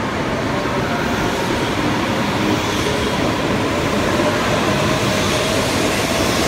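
Shinkansen bullet train moving past along the platform: a steady rushing rumble of wheels and running gear, with a faint whine over it, growing slightly louder.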